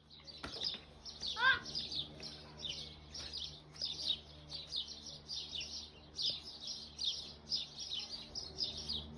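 A small bird chirping rapidly and over and over, about three short chirps a second, over a steady low hum.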